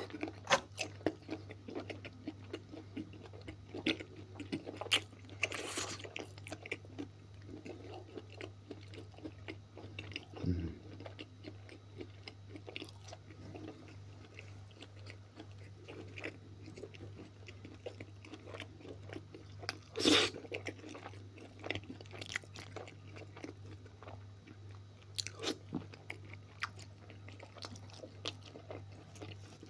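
A mouthful of stewed beef offal being chewed, with many small mouth clicks and smacks over a steady low hum. One louder click comes about twenty seconds in.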